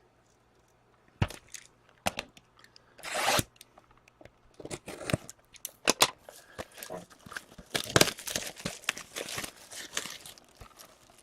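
Plastic wrapping and foil packs of a hockey card box being torn open and crinkled, a run of rips, rustles and small clicks that starts about a second in.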